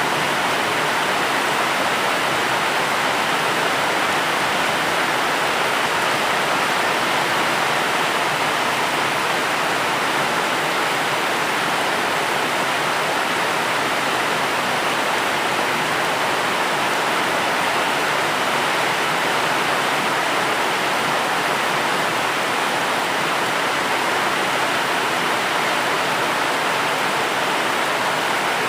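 Steady heavy rain: an even, unbroken hiss with no separate drops, thunder or other events standing out.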